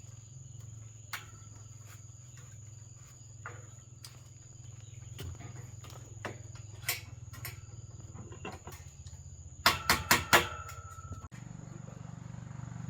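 Steady high-pitched insect drone with scattered light knocks. About ten seconds in come four quick, loud knocks, each with a short ringing note.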